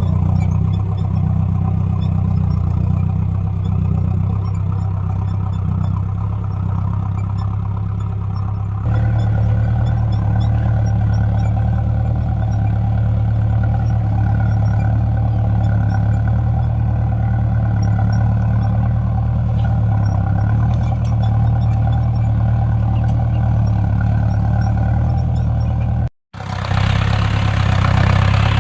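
Mahindra Novo 605 tractor's diesel engine running steadily with a low, even hum. The engine note shifts abruptly about nine seconds in, and the sound drops out for an instant near the end.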